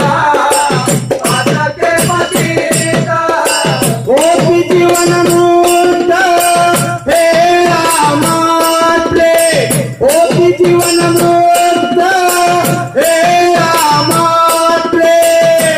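Devotional bhajan music: percussion beating at about four strokes a second with a jingling rattle, and long held melody notes over it from about four seconds in.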